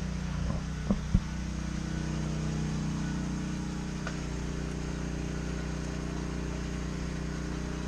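A vehicle engine running steadily with a low, even hum, with two short clicks about a second in.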